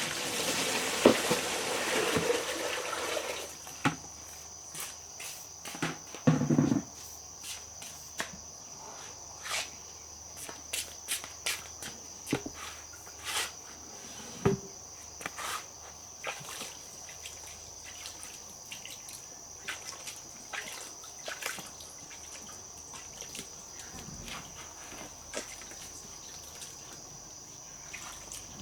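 Insects chirring steadily on one high tone, with scattered clicks and knocks throughout. A louder rush of noise fills the first few seconds.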